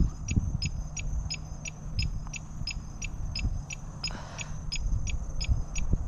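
A bike light's turn-signal indicator beeping in a steady, even tick, about three short beeps a second, left switched on. Underneath is a low rumble of wind and road noise.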